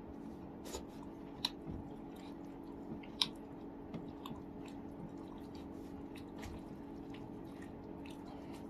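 Close-up chewing and wet mouth sounds of a person eating steamed chicken, with scattered sharp smacks and clicks, two of them louder about a second and a half and three seconds in, over a steady low hum.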